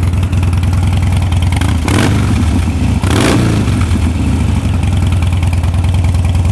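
Harley-Davidson 96-cubic-inch V-twin running through Vance & Hines exhaust, idling steadily with two short blips of the throttle about two and three seconds in.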